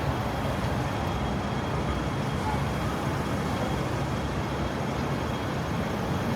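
Steady city traffic noise with a low engine hum, with faint background voices.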